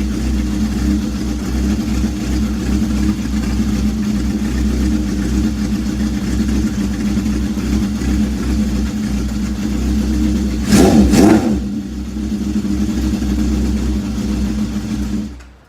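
1974 Honda CB750K inline-four idling through a 4-into-1 exhaust with its baffle removed and a DK Customs W258 Thunder Torque insert in the canister. Its throttle is blipped once, a short rev about eleven seconds in, and it then settles back to idle before being shut off near the end.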